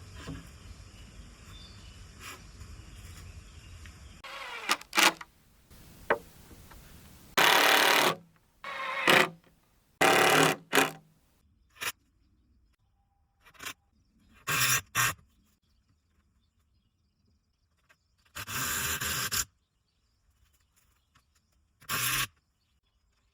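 Separate short bursts of woodworking noise, wood scraping and knocking as 2×4 lumber is handled, with silent gaps between them.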